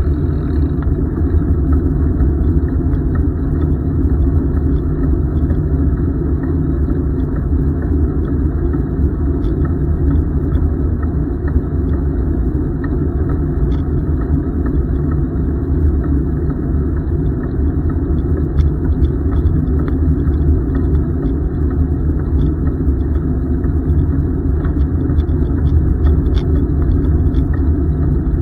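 Steady low rumble of a bicycle ride, from wind buffeting the microphone and tyres rolling on the pavement, with no changes through the stretch.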